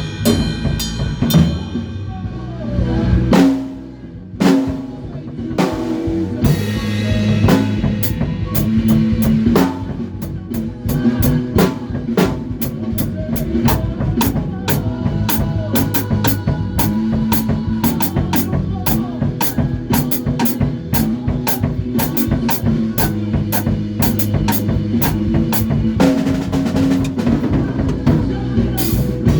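A rock band playing, led by a drum kit with kick, snare and cymbals over sustained bass notes. After a short break about four seconds in, the drummer keeps up a fast, even cymbal beat.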